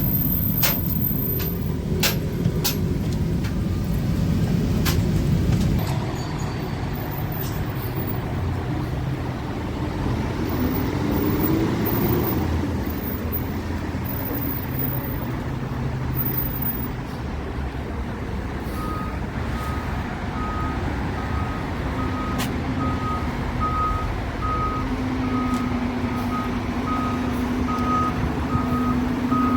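Fire truck's diesel engine running at low speed. From about two-thirds of the way through, its reversing alarm sounds a steady series of short beeps as it backs up.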